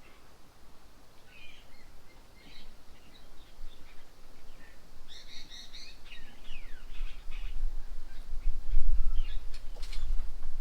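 Several birds chirping and calling in short, scattered notes, some sliding down in pitch. In the second half a low rumble comes in and grows louder.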